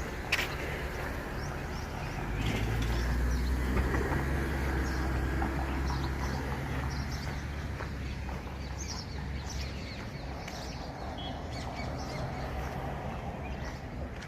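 Outdoor birds chirping and calling in short bursts throughout, over a low hum that swells about two seconds in and slowly fades.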